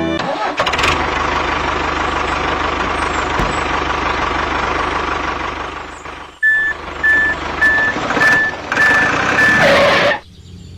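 A truck running with a steady noise, then its reversing alarm beeping about six times, roughly two beeps a second, over the engine noise. The sound cuts off sharply near the end.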